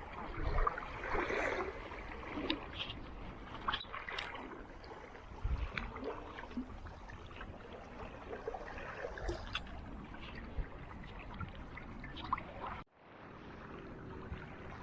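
Water splashing and gurgling around a kayak's hull, with scattered small knocks and drips. The sound drops out suddenly, almost to silence, about 13 seconds in, then returns.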